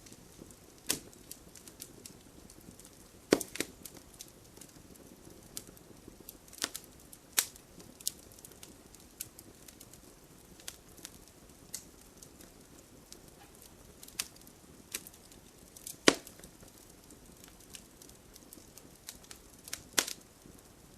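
Wood fire burning in a fireplace, a soft steady hiss under irregular sharp crackles and pops; the loudest pops come about 3, 7, 16 and 20 seconds in.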